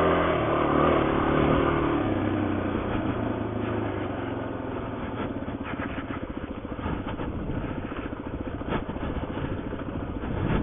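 Suzuki DR-Z400's single-cylinder four-stroke engine pulling at low revs for the first couple of seconds, then easing off to a slow, even chug that fades gradually. A few sharp knocks come through over it.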